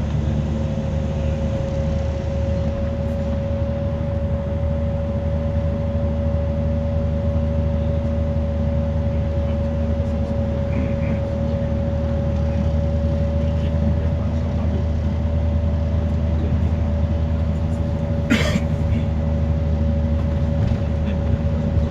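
Scania coach running steadily at speed: a constant low engine and road drone with a steady whine above it. A single short sharp knock about eighteen seconds in.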